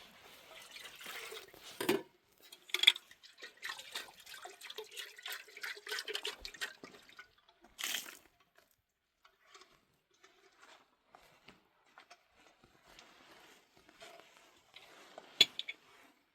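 Irregular small splashes and drips of water, with a few sharper knocks at intervals.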